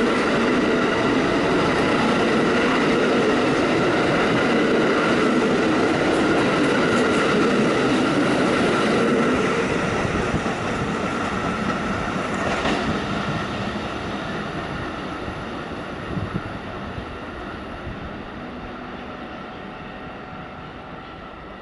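Pullman-Standard R46 subway cars running out of the station, with wheel-on-rail noise, a steady whine and a few clacks. The sound holds loud for about nine seconds, then fades steadily as the train pulls away.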